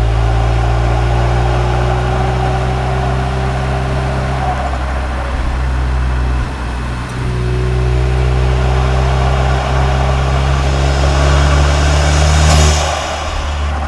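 Turbocharged 2.0 EA888 four-cylinder of a tuned Cupra Ateca under way, heard through a microphone at the intake and one at the exhaust. The engine note dips briefly about halfway, then builds steadily in pitch and loudness until a short rush of hiss near the end, when the power drops off.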